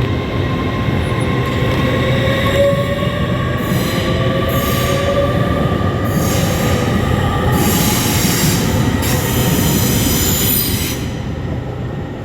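A train running through the station, loud and steady, with a sliding whine and high wheel squeal that comes and goes in stretches through the middle. It fades near the end.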